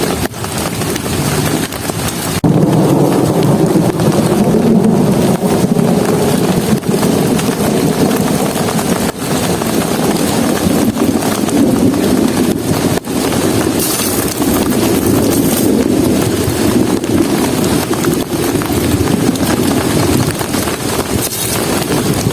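Heavy rain falling steadily on a camp shelter: a loud, continuous rush of noise, heaviest low in pitch.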